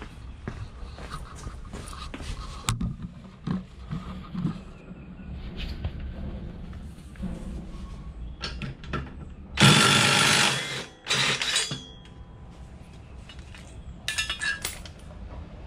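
Metal tools clinking and knocking against a mower deck while a cutting blade is unbolted. Past the middle a power tool runs for about a second and a half, loosening the blade bolt, then briefly again.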